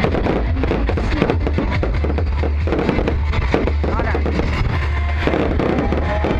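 Fireworks crackling and popping in rapid, dense succession over a steady low rumble, with music and people's voices mixed in.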